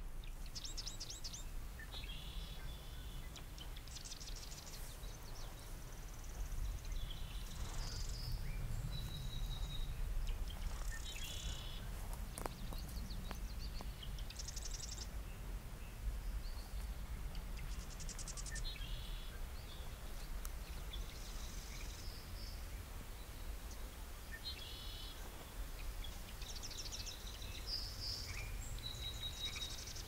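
Small birds calling again and again: short rapid trills and brief high notes every second or two, over a steady low rumble of background noise.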